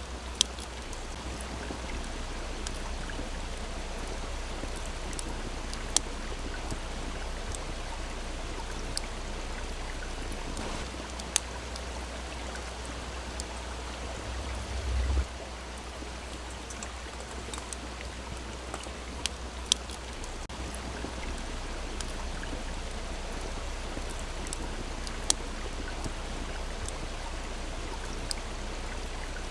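Small stream flowing steadily with a campfire crackling over it: a dozen or so sharp, isolated pops from the burning wood. A brief low rumble about halfway through.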